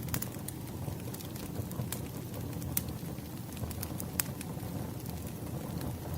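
Wood fire burning with a steady low rumble and irregular sharp pops and crackles from the burning logs, a few louder snaps scattered through.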